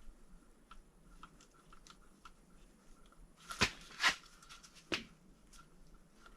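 Parts and tools being handled during engine assembly: scattered light clicks, with three sharper knocks a little past halfway.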